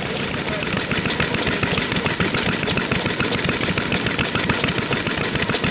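Old Japanese stationary engines (hatsudōki) idling, a steady stream of overlapping exhaust beats from their firing strokes.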